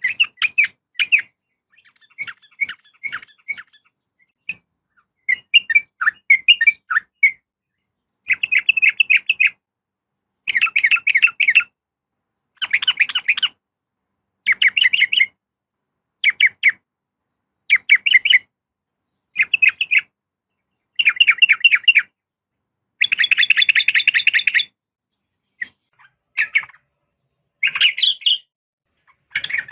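Yellow-vented bulbul (trucukan) giving bubbly, chattering call phrases about a second long, repeated roughly every two seconds with short silences between. This is the female's call used to lure males into singing.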